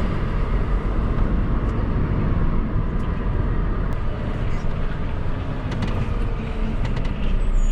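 Articulated lorry's diesel engine running, a steady low rumble with a few faint clicks over it.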